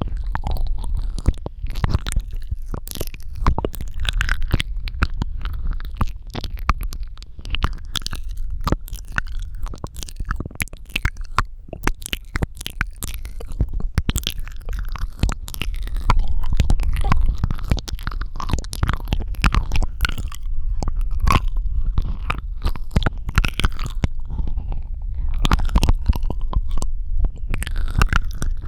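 ASMR mouth sounds close to the microphone: a dense run of wet clicks, smacks and squishy tongue and lip noises, with heavy low rumble underneath.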